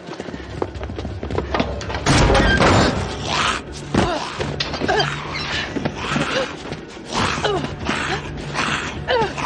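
Drama soundtrack: a steady low drone with several heavy thuds, the loudest about two seconds in and another about four seconds in.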